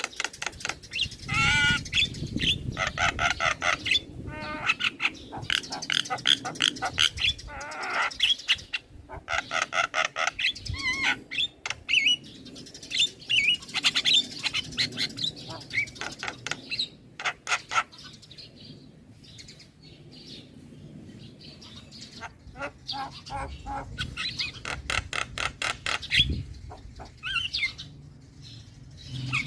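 Young male Javan myna singing and chattering continuously: rapid runs of clicking, rattling and harsh notes mixed with short whistles, easing off for a few seconds in the middle before picking up again.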